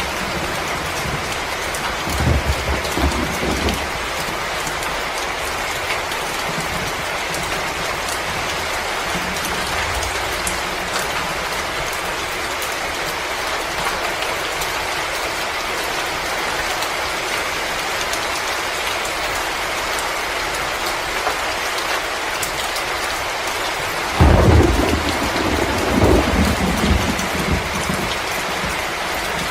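Steady storm ambience: an even, rain-like hiss with a few faint crackles, broken by a low rumble about two seconds in and a stronger, longer rumble from about 24 seconds in.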